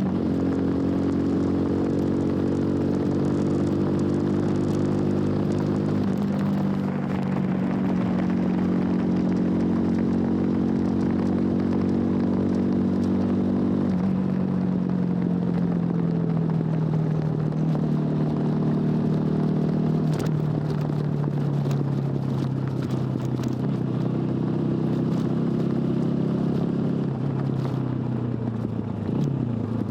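TVS Apache RTR 200 4V's single-cylinder engine running through its stock exhaust under a riding load. Its note shifts abruptly twice, then falls slowly in pitch as the bike slows.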